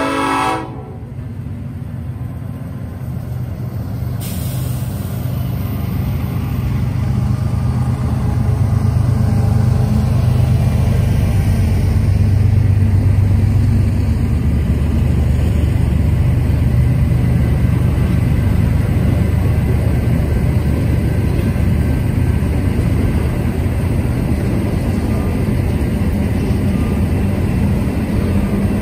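A freight train's locomotive horn cuts off within the first second. Then the BNSF diesel locomotives and a long string of double-stack container cars pass close by: a steady deep rumble of wheels on rail with clatter, growing louder over the first several seconds and then holding.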